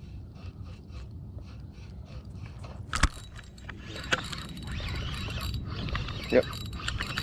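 Fishing reel being cranked: a run of about four soft ticks a second, a sharp knock about three seconds in, then faster, louder whirring from about four seconds. A steady low rumble lies underneath.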